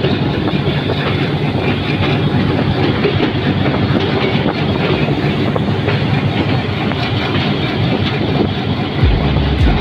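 Passenger express train running on the rails, heard from aboard: a steady rumble with wheels clattering over the track as it runs through the junction. Near the end a deep buffeting rumble comes in.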